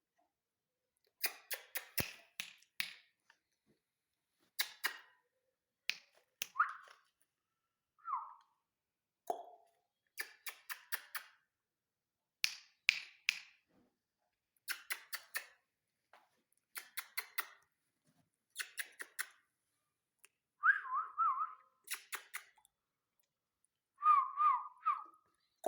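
Repeated bursts of quick, sharp clicks, three to five at a time, with a few short warbling whistles from a ringneck parrot in between.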